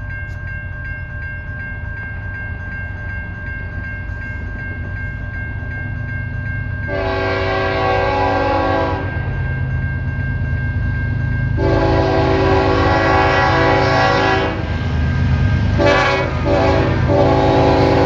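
Approaching diesel freight train led by a BNSF locomotive, its engines rumbling steadily and growing louder, while the lead locomotive's multi-chime air horn sounds two long blasts, a short one, and a final held blast: the standard grade-crossing signal.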